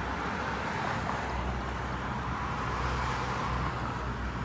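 Steady low rumble of road traffic noise with wind on the microphone; no distinct event stands out.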